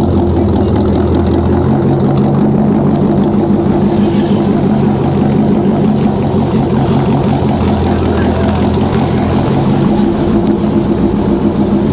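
An engine running steadily at idle, a loud low drone whose pitch shifts slightly about two seconds in and again near the end.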